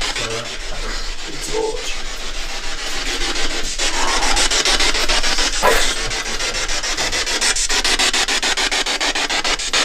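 Ghost box (spirit box) scanning through radio stations: a steady hiss of static chopped into rapid, evenly spaced blips, several a second.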